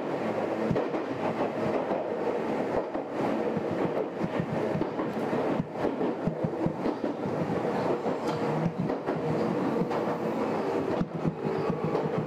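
Meitetsu Mikawa Line electric train running along the track, heard from inside the car: a steady rumble of wheels on rail with scattered sharp clicks.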